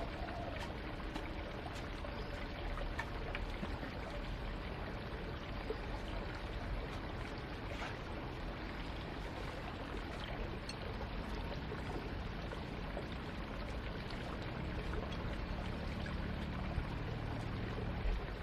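Steady running water with a few faint clicks.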